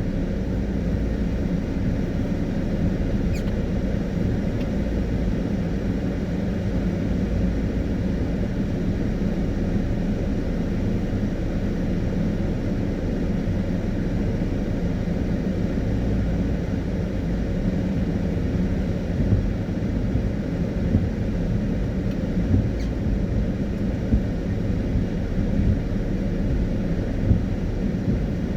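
Car driving on a wet road in the rain: a steady low rumble of tyres and engine.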